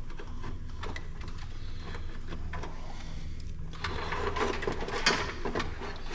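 X-Acto knife trimming reflective tape: scattered scratches and small clicks, growing busier and scratchier about two-thirds of the way in, with one sharp click. A steady low hum runs underneath.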